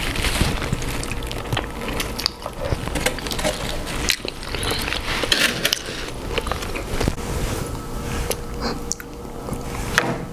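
Close-up eating sounds from a seafood boil: chewing and lip-smacking, with irregular clicks and rustles as food is handled in the sauce.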